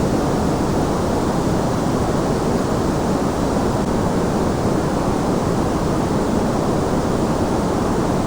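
A steady, unchanging white noise track: an even, deep hiss, heavier in the low and middle pitches than in the highs, with nothing else in it.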